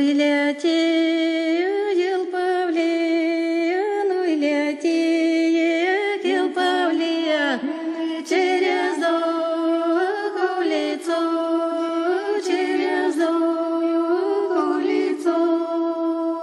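A solo female voice singing unaccompanied: a slow melody of long held notes with small ornamented turns between them.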